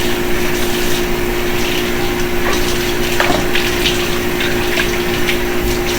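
Kitchen tap running steadily, with a steady low hum under the rushing water and a couple of faint knocks.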